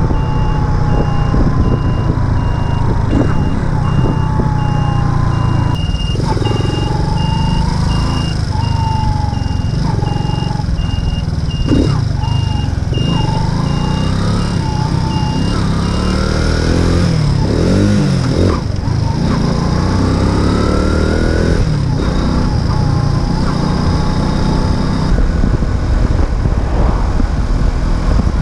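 A Racer Alpha RC50 moped's single-cylinder four-stroke engine runs while riding, its pitch rising and falling with the throttle, with wind noise. A high, even beeping repeats alongside it and stops about two-thirds of the way through.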